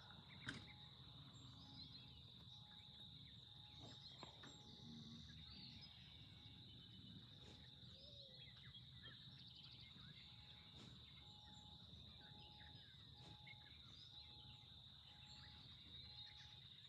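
Faint outdoor ambience: a steady, high-pitched insect drone with scattered bird chirps, and a soft short note repeating about twice a second.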